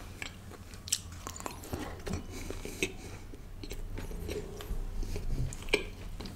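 Close-miked chewing of a bite of chicken tikka quesadilla: irregular soft crunches and mouth clicks over a low steady hum, with one sharper click near the end.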